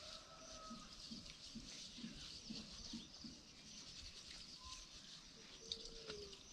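Faint animal calls, with one short falling call about six seconds in, over a light irregular pattering.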